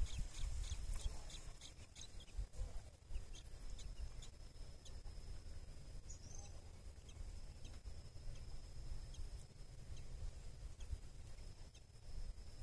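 A few short, high bird chirps in the first couple of seconds, over a low wind rumble on the microphone; a thin steady high-pitched tone sets in about three seconds in and runs on.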